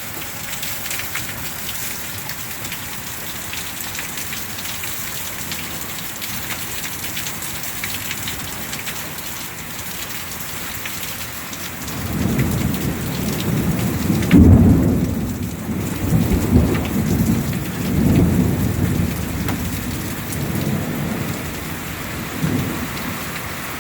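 Heavy rain falling steadily in a thunderstorm, with a long roll of thunder that starts about halfway through, is loudest a couple of seconds later, and rumbles on for about ten seconds before fading.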